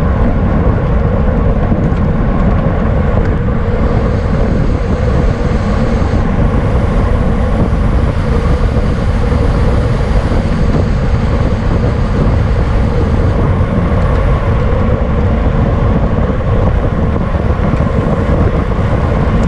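Wind rushing over the microphone of a camera carried on a racing bicycle: a loud, steady rumble with no break.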